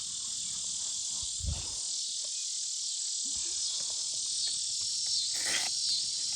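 A steady, high-pitched chorus of insects buzzing without a break. A soft low thump comes about one and a half seconds in, and a brief rustle comes near the end.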